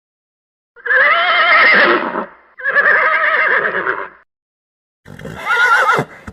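Horse whinnying: a long call with quavering pitch, briefly broken in the middle, then a shorter whinny about five seconds in.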